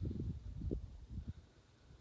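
Wind buffeting the phone's microphone: an uneven low rumble in gusts that eases off about halfway through.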